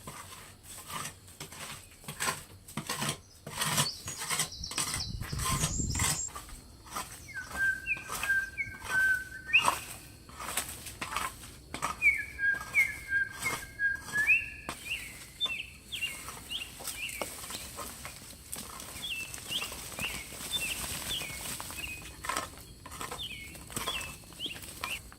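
A bird calling in runs of short, repeated chirping notes over a series of sharp knocks and rustles.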